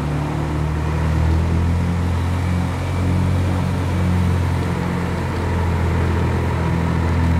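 BMW E46 M3's straight-six engine running at low revs as the car rolls slowly: a steady low drone.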